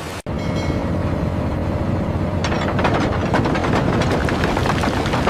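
Winch hauling under load: a steady mechanical drone with a faint held whine, joined about two and a half seconds in by dense, rapid clattering. The sound cuts out for an instant just after the start.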